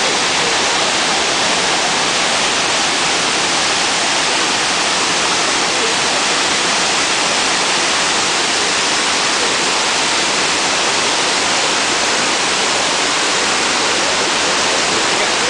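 Shiraito Falls, a broad curtain waterfall about 20 m high and 200 m wide, pouring in a steady, even rush of falling water.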